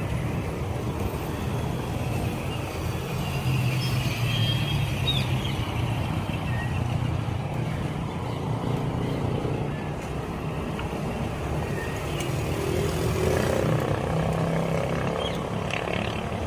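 Road traffic: a steady low engine hum that swells and eases as vehicles pass.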